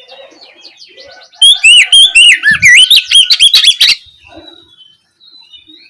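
Oriental magpie-robin (kacer) singing in full, open voice: faint soft notes, then about a second and a half in a loud, rapid phrase of varied sweeping whistles lasting about two and a half seconds, then soft notes again.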